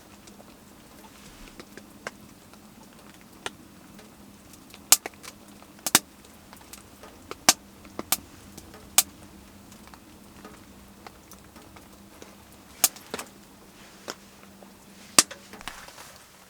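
Scattered sharp clicks and knocks, about eight at irregular intervals, over a faint steady low hum.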